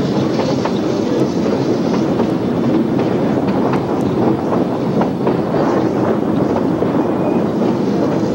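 Narrow-gauge steam train's cars rolling along the track: a steady rumble of wheels on rail, with a few faint clicks.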